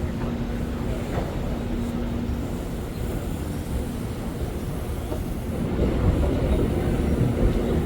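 Electric commuter train running: a steady low rumble with a faint hum, growing louder about two-thirds of the way through.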